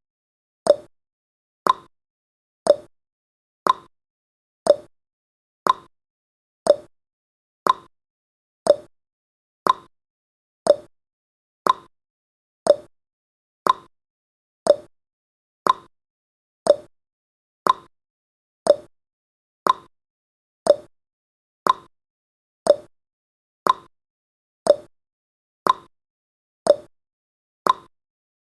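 Countdown timer's clock-tick sound effect: one short, sharp tick every second, steady and even.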